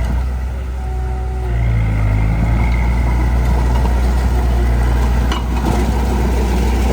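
Heavy diesel engine running steadily under load; its note rises a little about two seconds in. A single sharp knock comes near the end.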